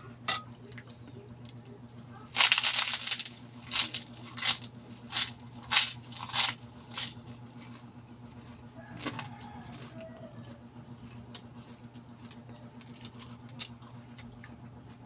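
Crisp pork cracklings (chicharon) crunching loudly under the teeth: a long first bite about two seconds in, then a run of sharp crunches roughly every half second of chewing that fades out by the middle. A low steady hum lies underneath.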